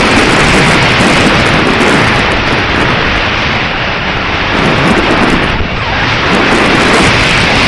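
Strong wind buffeting the microphone: loud, continuous wind noise that eases briefly a little before six seconds in.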